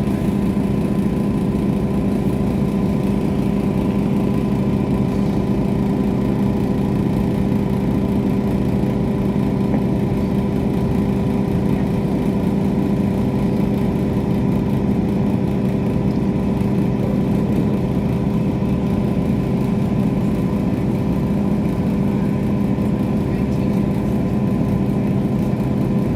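Diesel train's engine running at a steady pitch, heard from inside the carriage as an even drone with a few humming tones.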